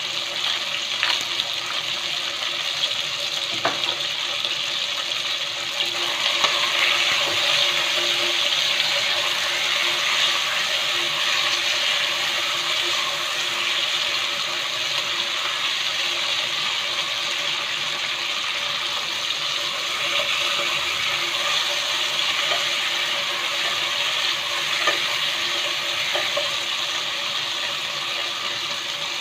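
Chicken wings with onion, tomato and ginger sizzling in hot oil in a nonstick pot, a steady frying hiss, with a few light clicks as the pieces are stirred.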